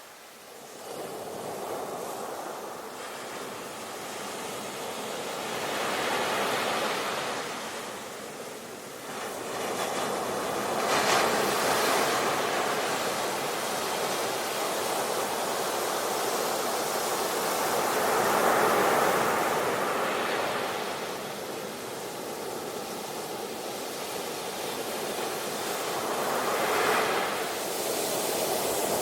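Ocean surf: waves breaking and washing in, swelling and easing off in slow surges every several seconds.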